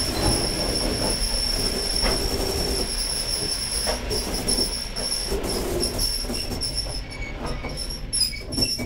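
Passenger train running, heard from the vestibule between carriages: a steady low rumble and rattling of the cars, with a steady high-pitched whine over it. Near the end the rumble eases and a few sharp knocks come through.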